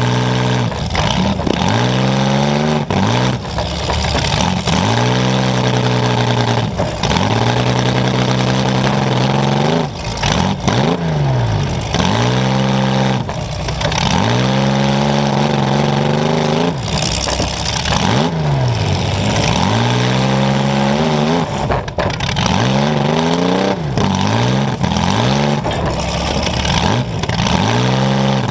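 Demolition derby car's engine barking through an open exhaust pipe close to the hood, revving loud and hard. Its pitch drops and climbs back up again and again every few seconds as the throttle is let off and reapplied.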